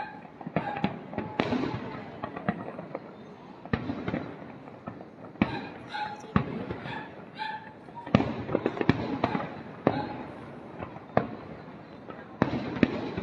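Aerial fireworks bursting in an irregular barrage: sharp bangs with echoing tails, coming thickest in rapid clusters about halfway through and again near the end.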